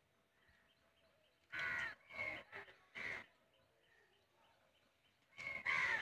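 A bird calling: five short loud calls in two groups, three from about one and a half seconds in and two more near the end.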